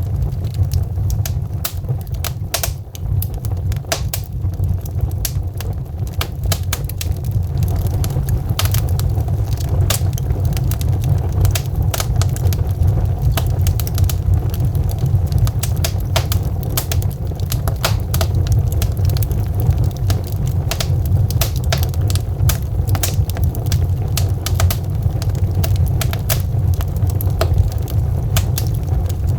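Wood fire burning in a fireplace, logs crackling and popping in a steady stream of sharp snaps over a deep, even low rumble of the flames; the snaps come thicker after the first several seconds.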